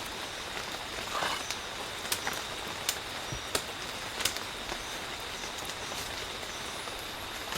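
Outdoor ambience: a steady hiss with a thin, high, steady whine, broken by scattered light ticks and snaps and a short rustle about a second in.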